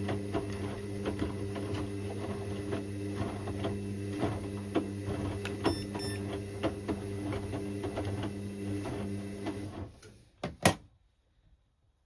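Indesit IWC6165 washing machine turning its drum in the wash: a steady motor hum with irregular clicks and knocks. About ten seconds in, the motor stops abruptly, and a single sharp click follows.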